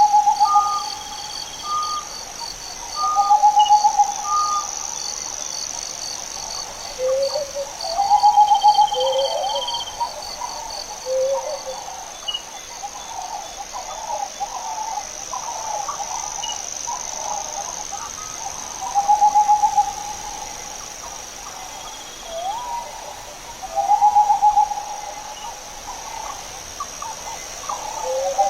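Birds calling: a repeated, roughly one-second trilling call about every four to five seconds, mixed with shorter lower notes, over a steady high insect buzz.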